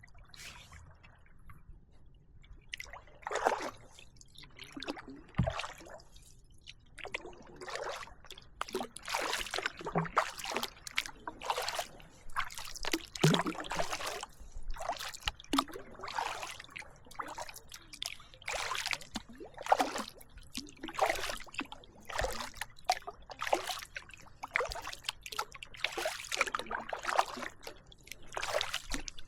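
Kayak paddle strokes: the blades dip into and pull through the water with a splash and a trickle of dripping water about once a second, starting a few seconds in.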